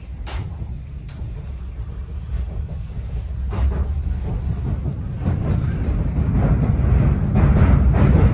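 Greater Anglia Class 745 FLIRT electric multiple unit running, heard on board: a steady low rumble with occasional clicks of the wheels on the track, growing louder about halfway in.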